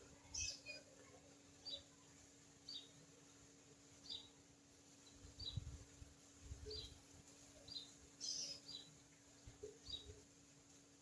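Faint short, high bird chirps repeating about once a second, with a louder, higher chirp about half a second in and another about eight seconds in.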